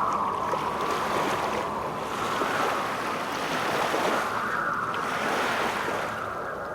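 Steady rushing noise like surf or wind, slowly swelling and ebbing, in a composed radio-art soundscape.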